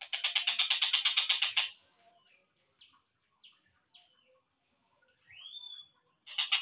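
Slowed-down recording of a tengkek buto kingfisher calling: a loud fast rattle of evenly repeated notes, about eight a second, for almost two seconds, then scattered short chirps and a rising whistle, and a brief return of the rattle near the end.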